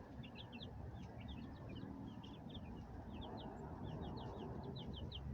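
Chicks peeping: a steady stream of short, high, falling peeps, several a second, over a low rumble.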